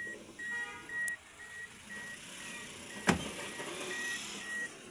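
An electronic beeper sounding a steady high beep about twice a second, like a vehicle's reversing alarm, with one sharp click about three seconds in.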